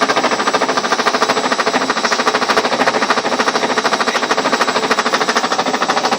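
Ariston washing machine spinning with a rapid, steady knocking from inside, about a dozen knocks a second. The machine itself stays still and does not jump; the owner says such a knock should not be there and that something inside it is knocking.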